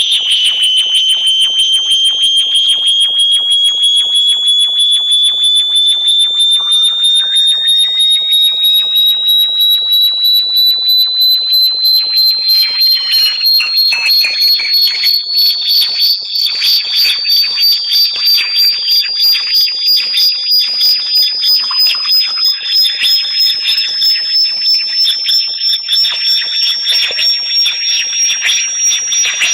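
Synthesized high-pitched electronic tone played as a bat repellent. It pulses several times a second while its pitch climbs slowly and steadily, with fainter tones sweeping above and below it.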